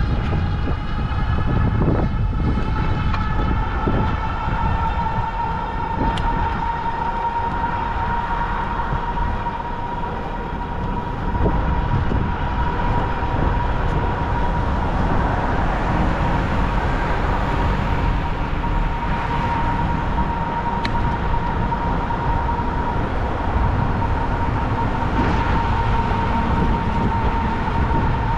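Electric bike motor whining steadily at a high pitch, rising over the first couple of seconds and then holding as the bike cruises, over heavy wind rumble on the microphone.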